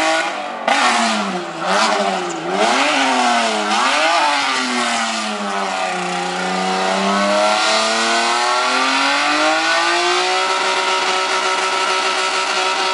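Nissan Laurel's engine revving hard through a burnout, with the hiss of spinning, smoking tyres. The revs rise and fall in quick blips several times, sag and climb back, then hold steady at a high pitch for the last couple of seconds.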